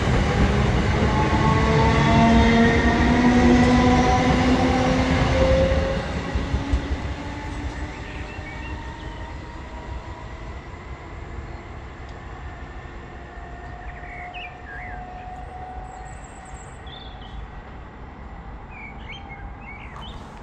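ScotRail electric multiple unit running past close by: a loud rumble of wheels and rail with a whine over it. The noise drops away abruptly about six seconds in as the last carriage clears, leaving a faint steady rumble from down the line.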